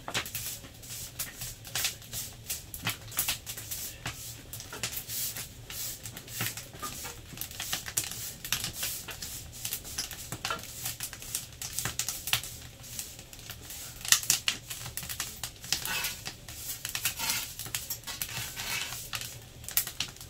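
Firewood crackling in a large wood-burning stove: irregular sharp snaps and pops, some louder than others, over a low steady hum.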